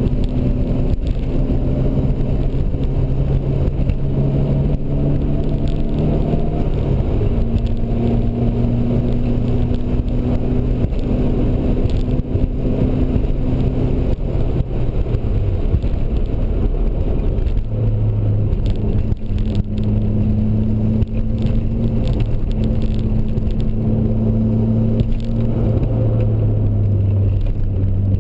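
Nissan 240SX engine running hard on a track lap, heard from inside the cabin over road and wind noise. The steady engine note steps in pitch a few times, around 7 s, 15–18 s and 26 s.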